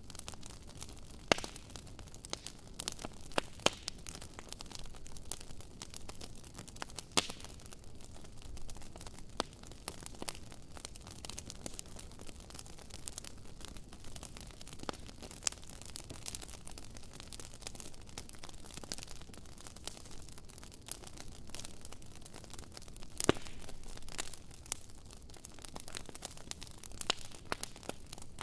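Wood fire crackling: irregular sharp pops and snaps over a steady low hiss, with two louder pops, one about a second in and one some five seconds before the end.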